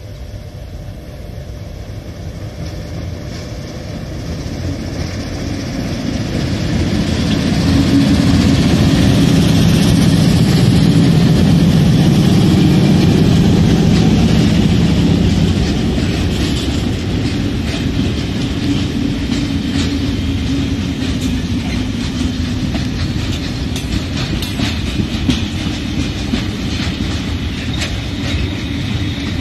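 Two MLW diesel locomotives heading a freight train approach and pass close by, their engines' low drone growing steadily and loudest from about eight to fifteen seconds in. Then the freight wagons roll past with a steady rumble and the clickety-clack of wheels over the rail joints.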